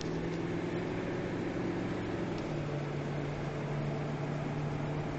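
Steady hum of an SUV's cabin, engine and heater blower running, heard from inside; the low engine note steps down slightly about halfway through.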